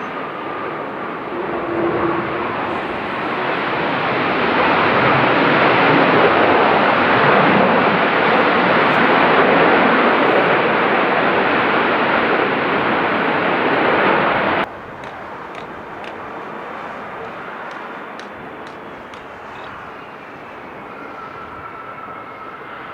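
Jet airliner engines passing close, a loud even noise that builds over several seconds and cuts off abruptly about fifteen seconds in, leaving a quieter jet whine.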